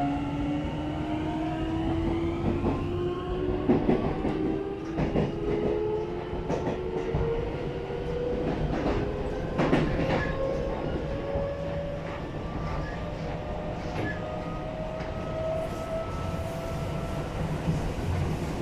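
Hitachi two-level IGBT VVVF inverter of a Seibu 9000 series train, heard from inside the car, whining in several tones that climb steadily in pitch as the train accelerates, over the rumble of the running gear and sharp clacks of the wheels on rail joints. The whine fades out near the end.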